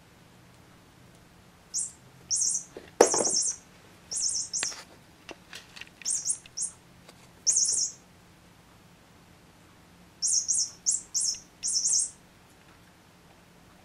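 Toy bird chirping 'piyo piyo' in short high-pitched bursts as a cat bites and shakes it, going quiet for a couple of seconds and then chirping in a quick run near the end. A thump about three seconds in.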